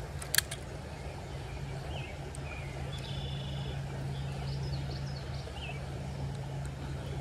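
Small birds chirping in short, faint calls over a steady low hum, with a sharp click about half a second in.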